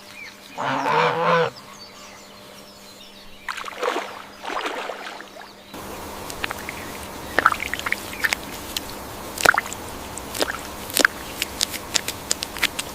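Farm animal calls: one loud call with a wavering pitch about a second in, then softer, rougher calls a few seconds later. After that come scattered short clicks and taps over a steady background.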